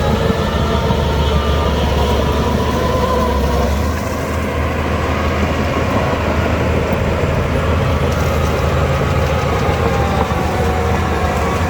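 Diesel engine of a Shantui DH17 bulldozer running steadily while working, easing off slightly about four seconds in.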